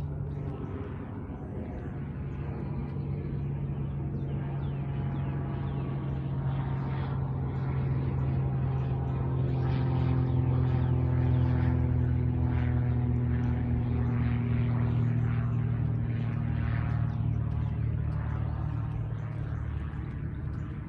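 Engine drone passing by: a steady low hum that swells to its loudest about halfway through and then fades, its pitch sinking slightly as it goes.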